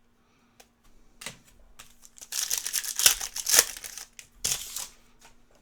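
Foil trading-card pack wrapper crinkling and tearing in the hands as it is opened. The rustling comes in bursts, loudest about halfway through, with a last burst near the end.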